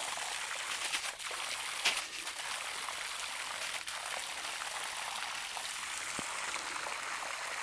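Water running steadily into a chicken waterer as it is topped off, stopping just after it is full.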